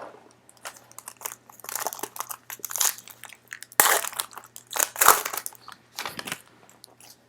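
Plastic-foil wrapper of a basketball trading card pack being opened and handled, crinkling in a run of short irregular bursts.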